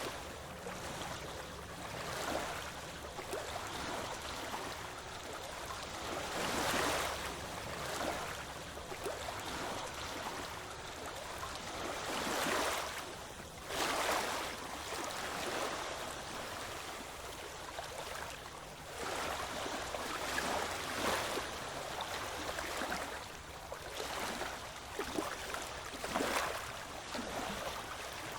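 Ocean waves washing in: a steady wash of water with louder surges every few seconds.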